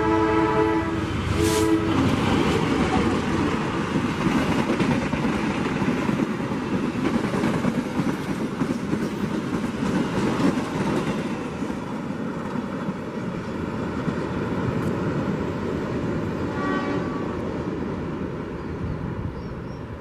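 Train horn sounding as a multi-tone chord, cutting off about a second in with one short blast after it, then the train running past at speed with a dense, steady rumble that slowly fades toward the end.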